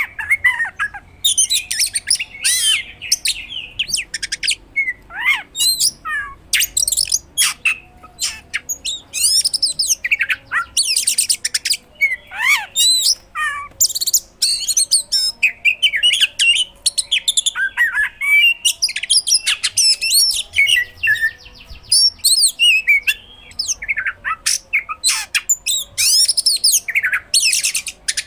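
Oriental magpie-robin (kacer) in full song: a continuous, varied stream of sharp chips, fast rising and falling whistles and harsh notes, with only brief pauses, packed with phrases mimicked from other birds.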